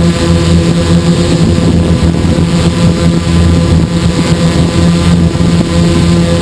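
Hexacopter's six electric motors and propellers running at a steady hover, a constant hum of several pitches with hiss above it, heard from the camera carried on the aircraft. There is some wind noise on the microphone.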